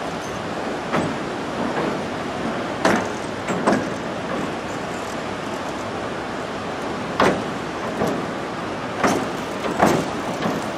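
Running noise of a passenger train crossing a steel truss railway bridge, heard from aboard: a steady rumble of wheels on rails with about seven clunks at uneven spacing, some in pairs.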